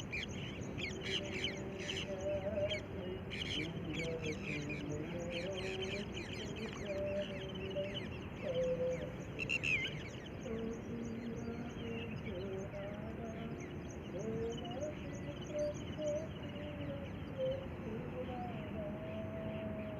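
Birds chirping, with bursts of quick high calls in the first half, over a steady background hiss.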